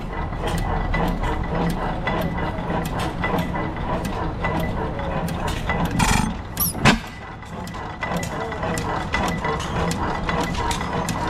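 Antique machinery at an engine show running with a rapid mechanical clatter and a thin steady whine, with two sharper knocks about six and seven seconds in.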